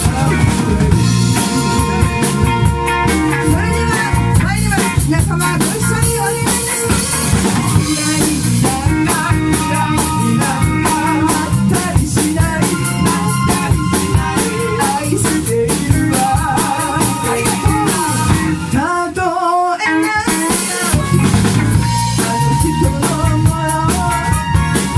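Live band playing a Shōwa-era kayōkyoku song at a studio rehearsal, with the drum kit's snare, rimshots and bass drum to the fore. The drums and bass drop out briefly about nineteen seconds in, then the full band comes back.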